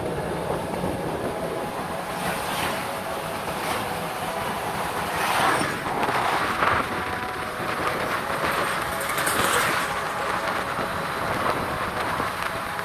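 Continuous rumble and rattle of a moving vehicle, with the loudness rising and falling a little.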